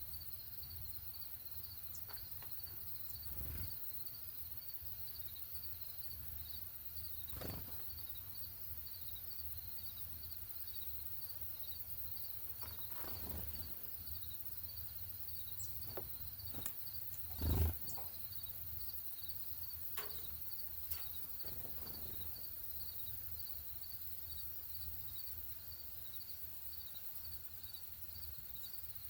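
Insects chirping steadily outdoors in a fast, even, high-pitched pulse, typical of crickets. A few short muffled thumps break in, the loudest about two-thirds of the way through.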